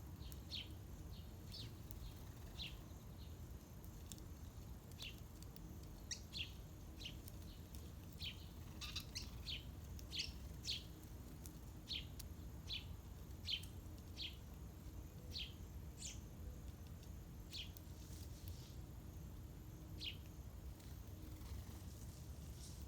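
Small birds chirping: many short, separate chirps, irregularly spaced, over a faint steady low rumble.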